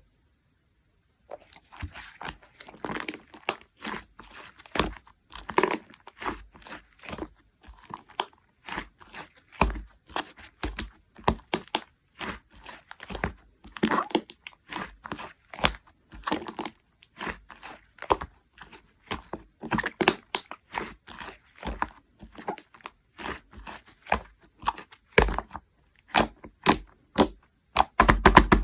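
Hands kneading, pressing and stretching a chewy slime, giving an irregular run of sticky clicks and pops that come thick and fast near the end.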